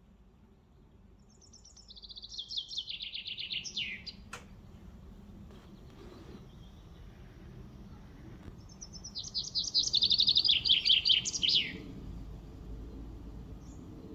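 A songbird singing two phrases, each a fast run of notes that falls in pitch toward its end; the second phrase, near the end, is louder. A short click follows the first phrase.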